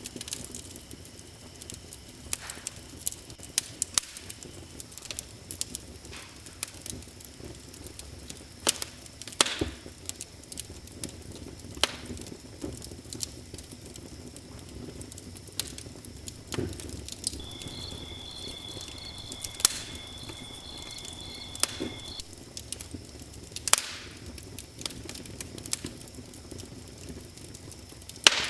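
Wood fire in a fireplace crackling, with irregular sharp pops over a soft steady hiss. Midway a thin high tone sounds for about five seconds.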